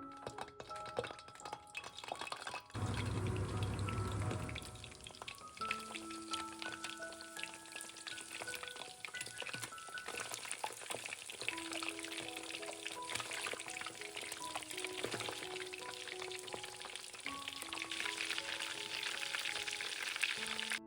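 Breaded minced-meat balls sizzling and crackling as they fry in hot oil, the sizzle growing stronger near the end, over light piano background music. A louder low rumble lasts about a second and a half, starting about three seconds in.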